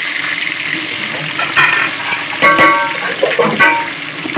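Hot oil sizzling in a steel pot as chopped tomatoes are tipped in from a plate. Near the middle come a few clinks with brief metallic ringing, and the sizzle swells.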